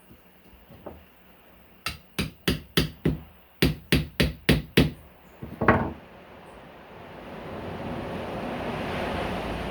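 A hammer tapping a screwdriver, used as a pick, into a coconut's eye to widen the hole: about eleven quick, sharp taps in two runs, then a heavier knock. After the knock, a broad rush of noise swells and fades.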